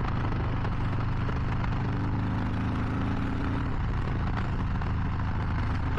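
Harley-Davidson Low Rider ST's Milwaukee-Eight 117 V-twin running at a steady cruise on the highway, with wind and road noise over the low engine note.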